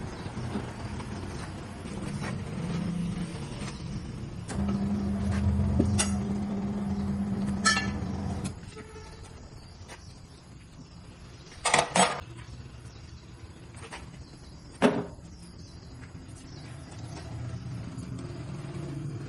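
Low mechanical rumble with a steady motor hum for about four seconds, then a few sharp metal knocks and clanks, two close together near the middle and one a few seconds later.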